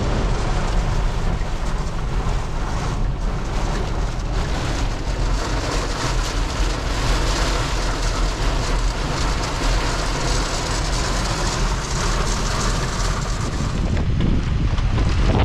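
Strong thunderstorm wind rushing and buffeting the microphone: a steady noisy hiss over a low rumble, picking up slightly near the end.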